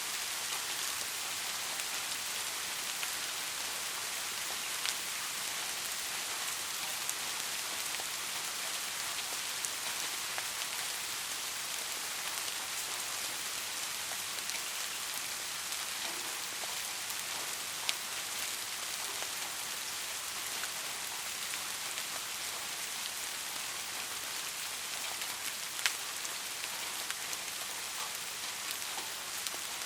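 Steady rain falling, an even hiss with scattered individual drop strikes, a few sharper ones standing out, no thunder.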